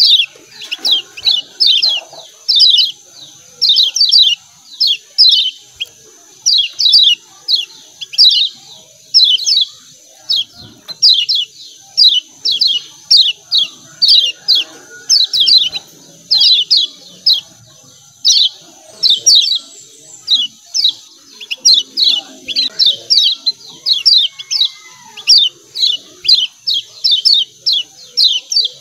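Kecial kuning (Lombok white-eye) giving 'ciak ciak' calls: short, sharp, falling chips in quick clusters of two to four, repeating about once a second, over a steady high hiss.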